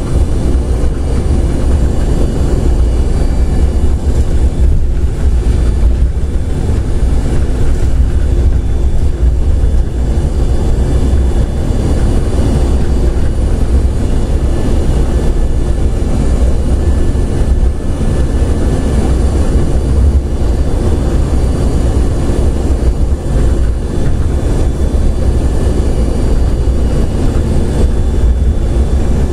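Airport AirTrain monorail car running along its elevated guideway, heard from inside the car: a steady low rumble that holds the same level throughout.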